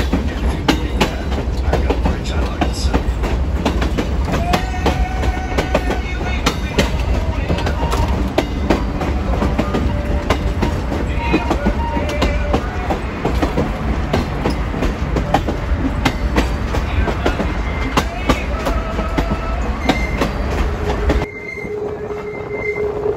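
Passenger train rolling along the track, heard from an open car: a dense low rumble with many sharp clicks of the wheels over the rail, and short high wheel squeals through the curve. About 21 seconds in, the rumble drops away suddenly, leaving a quieter run with a thin steady squeal.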